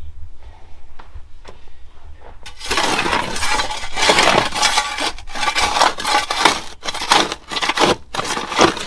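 Metal shovels scraping and digging into rocky dirt, with gritty scrapes and clinks of stones; faint at first, then continuous and loud from about three seconds in.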